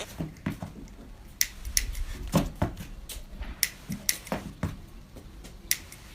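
Scattered light clicks and taps, a dozen or so at uneven intervals, over a quiet background.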